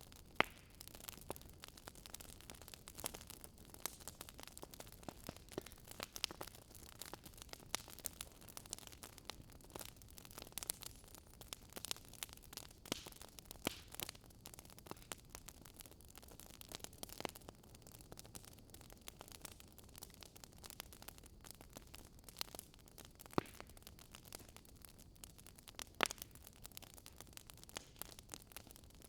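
Wood fire crackling: irregular small pops and snaps over a soft hiss, with a few sharper pops, the loudest about 26 seconds in.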